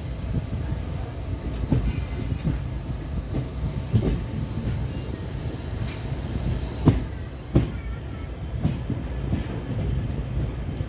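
Indian Railways passenger coach rolling slowly out of a station, heard from a coach window: a steady low rumble of wheels on rail with irregular clanks and knocks, two sharp ones about seven seconds in.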